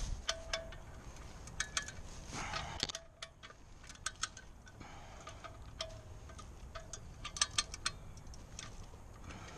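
Sharp metallic clicks and clinks in irregular clusters, some with a brief ringing note, from a chain pulling rig being worked to drag a log. A short rustling scrape about two and a half seconds in.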